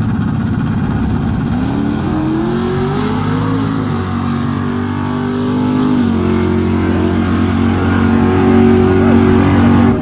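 A car's engine accelerating hard down the drag strip, its pitch climbing and then dropping at gear changes about four and six seconds in before holding high.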